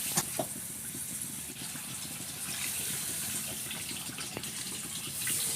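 Pigeon pieces cooking in a pan, a steady sizzling and bubbling of liquid, with a few sharp clicks of a utensil against the pan early on and again about four seconds in.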